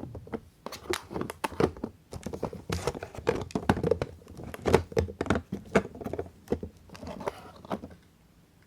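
Dry soap being crushed and broken by hand: a dense, irregular run of crackles and clicks that stops abruptly near the end.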